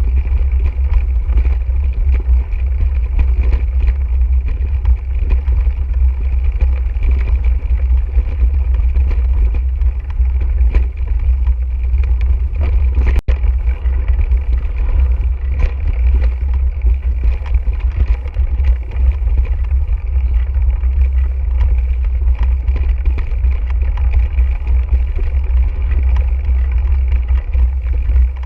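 Mountain bike riding on a dirt trail, heard through a bike- or rider-mounted camera: a steady, loud low rumble of wind buffeting the microphone, with scattered clicks and rattles from the bike and tyres over the rough ground.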